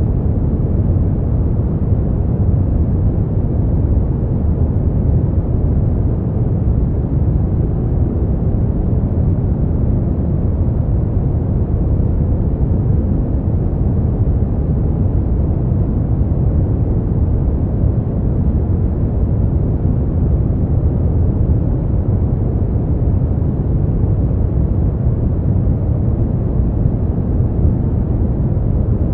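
Steady noise track for sleep and relaxation: an even, deep hiss with most of its weight low down and little top end, unchanging, with no pitch or rhythm.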